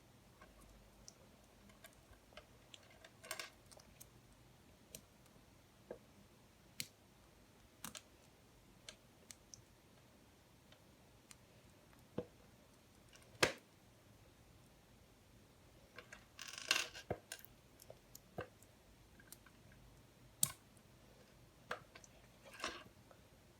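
LEGO Technic plastic pieces being handled and fitted together: scattered sharp clicks and taps at irregular intervals, with a brief run of rattling clicks about two-thirds of the way through.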